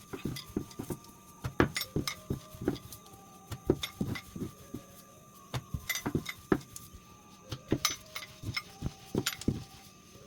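Rolling pin knocking and clattering against a counter as stuffed roti dough is rolled out, an irregular run of sharp taps, several a second, some in quick pairs.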